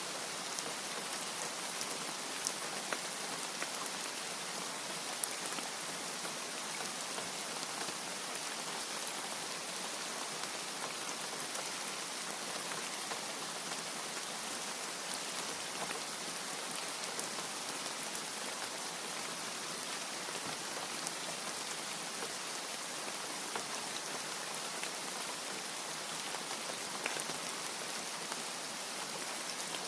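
Steady rain falling: an even hiss with scattered sharper drop ticks, and no thunder.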